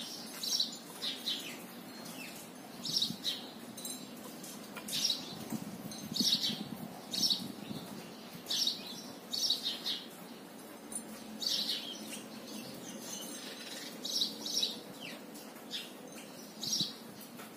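A bird chirping repeatedly: short, high chirps at irregular intervals, roughly one a second.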